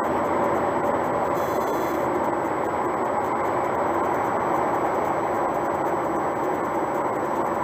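Steady road and engine noise inside a car cruising on the highway, with a brief faint high-pitched sound about a second and a half in.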